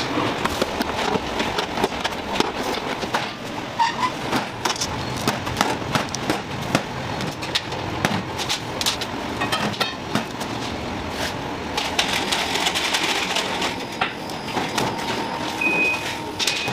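Cake factory floor noise: a steady machine din with frequent clicks and knocks of work going on.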